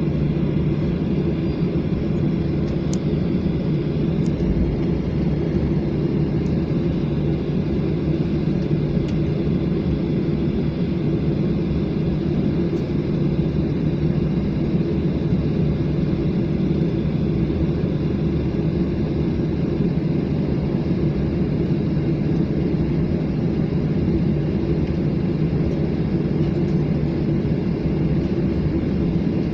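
Steady low rumble of a Garuda Indonesia jet airliner, holding level with no rise in pitch or loudness, plus a few faint clicks.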